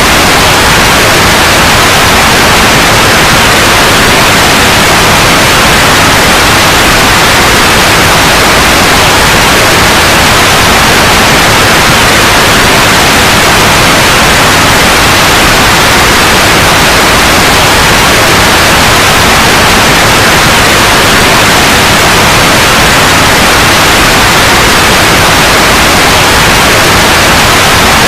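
Loud, steady synthetic white noise: an even, unchanging hiss.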